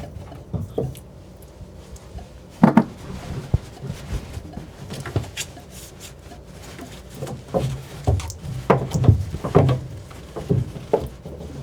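Scattered knocks and clunks against wood in a small room: a sharper knock about three seconds in and a cluster of bumps in the last few seconds.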